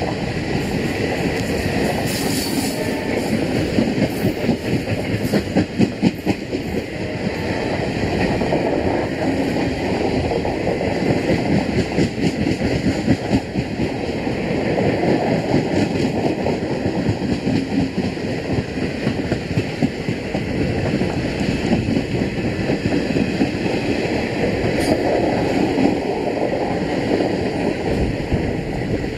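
Indian Railways passenger coaches of an express train rolling past close by, the wheels clattering steadily over the rail joints in a continuous clickety-clack.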